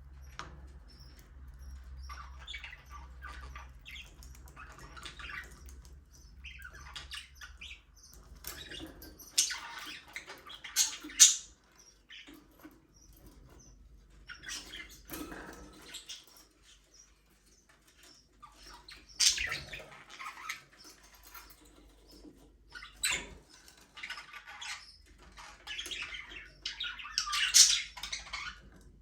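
A flock of budgerigars chirping and chattering in irregular bursts, with a few louder, sharper calls standing out.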